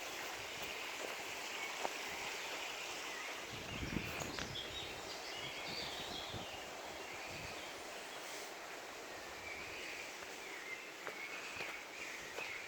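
Small birds chirping and singing in short wavering phrases over a steady rushing background noise.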